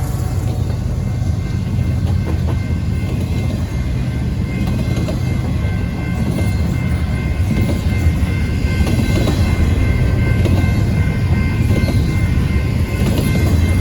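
Train rolling past on the rails: a steady low rumble of wheels on track with a thin, steady high tone joining about two seconds in, growing a little louder toward the end.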